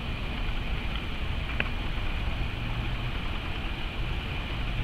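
Distant approaching train, a steady low rumble heard from the station platform.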